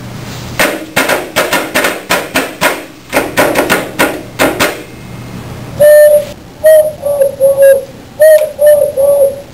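A run of quick, irregular knocks or taps, then a person making a loud bird-call imitation: short hooting whistled notes, each dipping in pitch, repeated several times.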